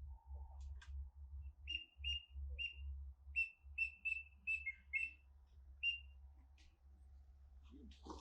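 A run of about a dozen short, high whistled duck peeps, some paired with a slightly lower second note, over a low gusting rumble of wind on the microphone.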